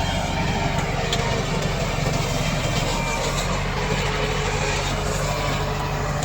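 Komatsu D68 bulldozer's diesel engine running steadily at working speed.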